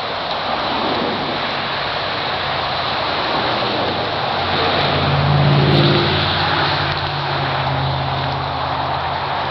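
An engine running under a steady hiss, getting louder and slightly higher in pitch about five seconds in, then settling back.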